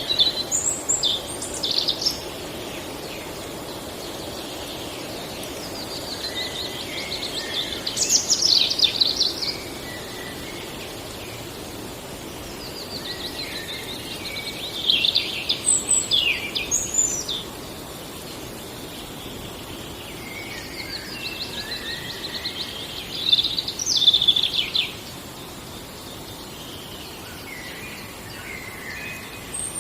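Forest songbird singing: a song phrase of about three seconds that swells and ends in a few loud notes, repeated three times roughly every seven to eight seconds, with a few short high chirps between. A faint steady hiss lies underneath.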